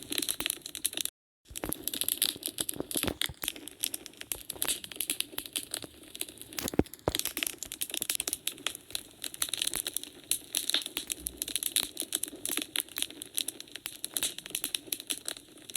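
Wood fire in a fireplace crackling and popping in dense, irregular clicks. It cuts to dead silence for a moment just after a second in, and there is a sharper pop near seven seconds.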